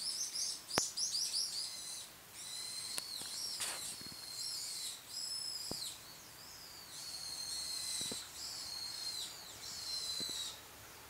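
Small songbirds twittering: repeated bursts of high chirps and trills, each about a second long, with a few short faint clicks between them.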